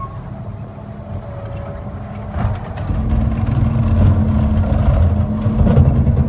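Garbage truck's engine running with a steady low rumble and hum. It grows louder about two and a half seconds in as the engine revs up, with a few short knocks.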